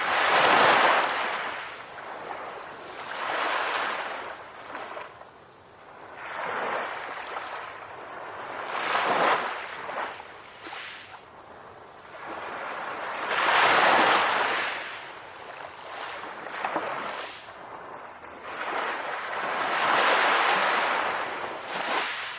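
Ocean waves breaking and washing onto a shore, each surge of rushing surf swelling and fading every few seconds, strongest about a second in, midway and near the end.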